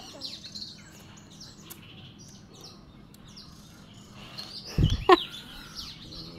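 Small birds chirping in the background, many short high chirps. About five seconds in comes a short thump, followed at once by a brief voice sound.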